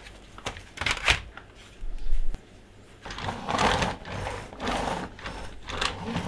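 Small plastic toy monster trucks and playset pieces being handled: a few sharp clicks and knocks, a low bump about two seconds in, then several bursts of rattling, scraping plastic noise.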